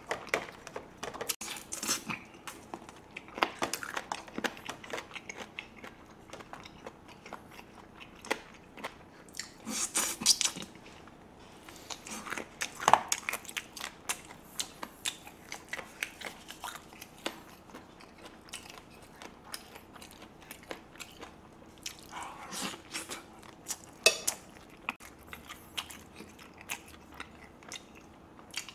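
A person chewing and biting roast chicken pulled off the bone by hand: irregular wet mouth clicks and crunches, with a few sharper, louder clicks.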